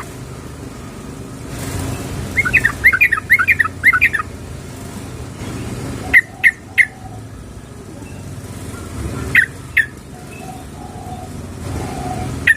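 Female yellow-vented bulbul (trucukan) calling: a burst of rapid chattering notes about two seconds in, then three short sharp calls around six seconds and two more near nine and a half seconds, over a low steady background hum.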